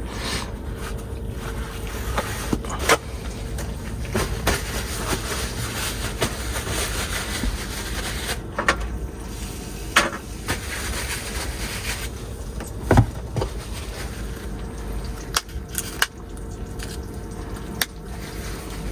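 Dishes and utensils being handled: scattered sharp clicks and knocks, half a dozen or so, over a steady low hum.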